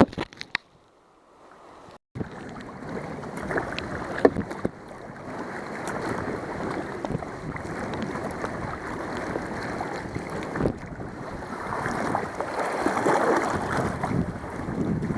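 Water sloshing and splashing around a kayak as it is paddled, mixed with wind on the microphone. It starts abruptly about two seconds in, after a brief near silence, and grows louder toward the end.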